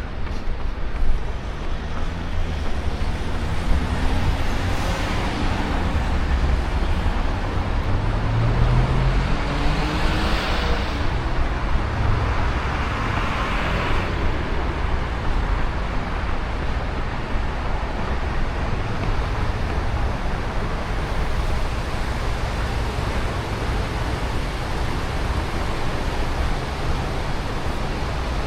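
Steady wind rumble on the microphone of a body-worn camera during a run, with street traffic; a motor vehicle passes between about 4 and 14 seconds in, its engine rising in pitch.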